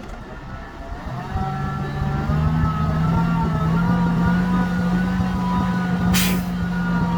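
Heavy diesel engine of earthmoving machinery growing louder over the first two seconds, then running loud and steady, with a short sharp hiss about six seconds in.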